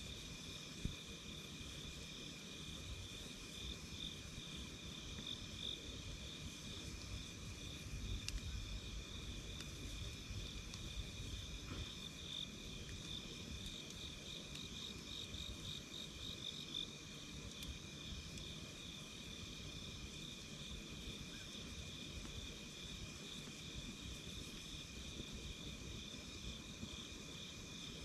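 Night insects chirping in a steady, pulsing chorus, with a low rumble underneath and a few faint crackles from a campfire.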